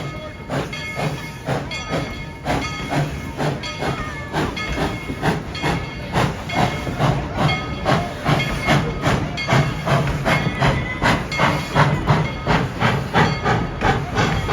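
Tweetsie Railroad No. 190, a narrow-gauge steam locomotive, chuffing steadily as it works under steam, about two to three exhaust beats a second, quickening slightly as it picks up speed.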